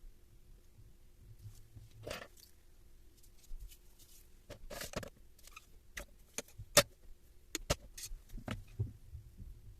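Scattered clicks, light knocks and short scrapes of parts and hand tools being handled during repair work on a Hilti TE1000 breaker, busier in the second half with one sharp click about two-thirds of the way in. A faint steady hum runs underneath.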